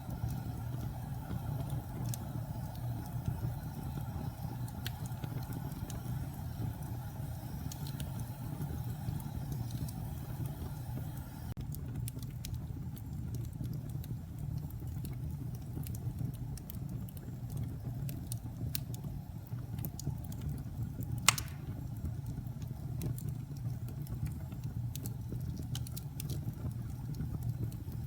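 Wood fire crackling in a fireplace: scattered snaps and pops over a steady low rumble of the burning fire, with one sharp, louder pop about two-thirds of the way through.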